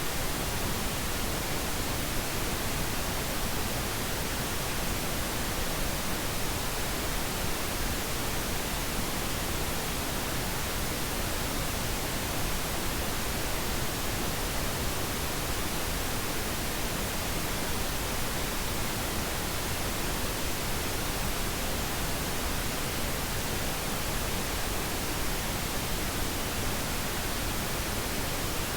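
Steady pink noise: an even, unchanging hiss spread across all frequencies, used as a sleep aid.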